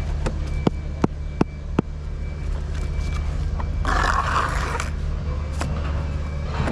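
A steady low machine hum runs throughout. Over it come five sharp knocks, about three a second, in the first two seconds, then a burst of scraping noise lasting about a second about four seconds in.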